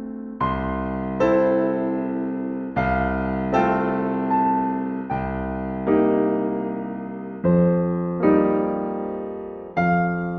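Slow, gentle piano music: soft chords struck about once every second or so, each ringing and fading before the next.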